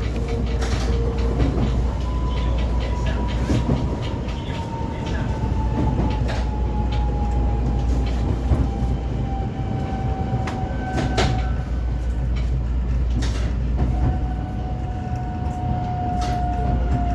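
125 series electric railcar running along the line, heard from the cab: a steady low rumble of wheels on rail with scattered clicks. Over it a motor whine glides slowly down in pitch, breaks off about two-thirds of the way through, then comes back and keeps falling.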